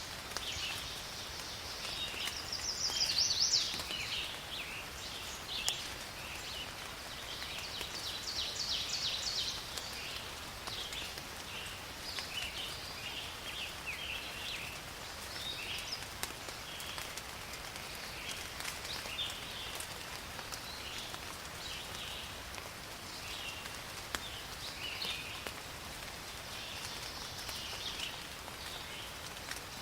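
Steady rain falling in a forest, with small animals chirping and trilling throughout; the calls are loudest about three seconds in and again around eight to nine seconds.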